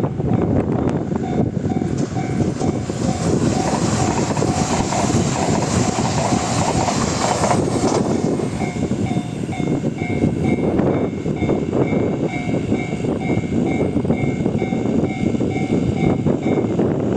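An E3 series 2000 Shinkansen passing at speed, loudest in the first half, with its wheels clacking over the rail joints. A level-crossing warning bell rings steadily in repeated tones throughout, and strong wind buffets the microphone.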